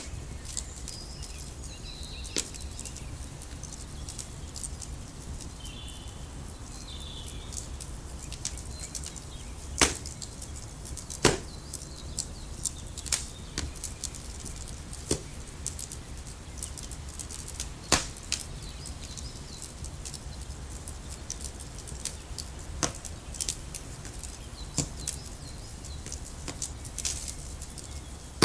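Irregular sharp clicks and ticks, a few of them much louder, with a few faint bird chirps in the first seven seconds over a steady low rumble.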